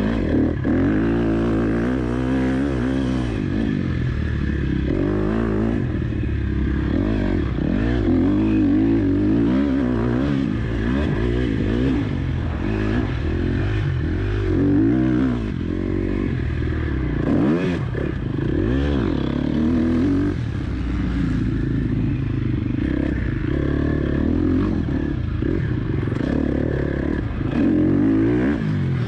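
KTM 250 SX-F single-cylinder four-stroke motocross engine under riding load, its note rising and falling over and over as the throttle is opened and shut.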